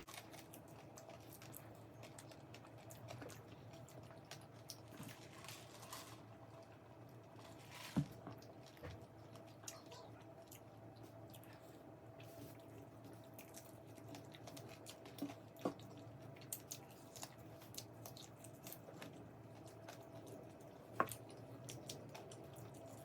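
A person chewing and biting into fried chicken, with soft irregular crunches and mouth clicks and a few sharper clicks, over a faint steady hum.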